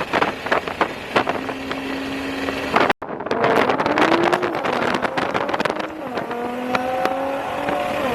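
Car engine running while driving, with a run of sharp crackles and pops in the middle, then a steady drone that rises slowly in pitch near the end as the car gathers speed.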